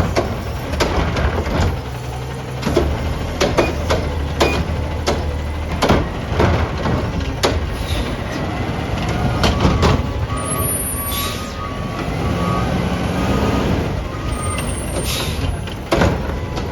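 Garbage truck engine running steadily, with many sharp clunks and knocks, and two short hisses of air in the second half.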